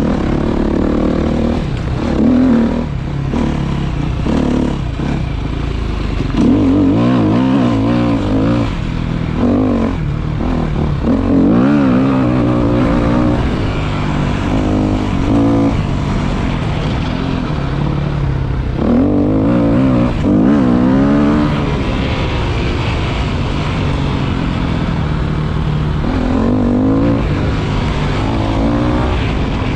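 Motorcycle engine running under way, its pitch rising and falling again and again as the throttle is opened and eased, over a steady low rumble.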